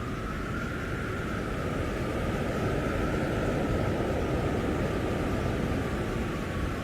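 Storm-force winter wind blowing in a steady dense rush, with a faint thin howl wavering gently in pitch above it, swelling a little partway through.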